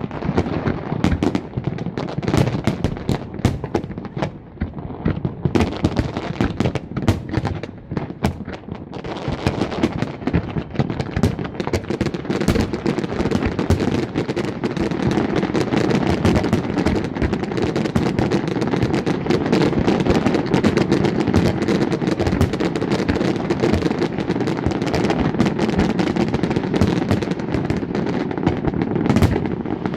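Aerial fireworks going off: separate sharp bangs and pops at first, then from about a third of the way in a dense, continuous barrage of crackling bursts.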